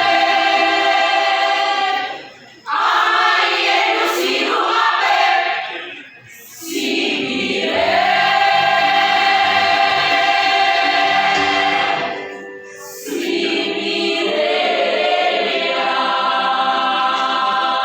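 A choir singing long, held chords in phrases, with short breaks between phrases about two and a half, six and a half and twelve and a half seconds in.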